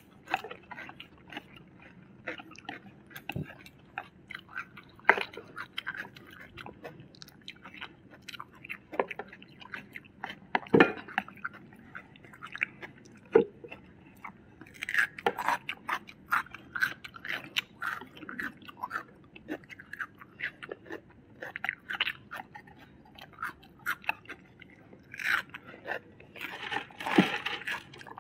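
Close-up eating sounds of two people chewing and crunching on food, with many short, sharp crunches scattered throughout, more frequent in the second half.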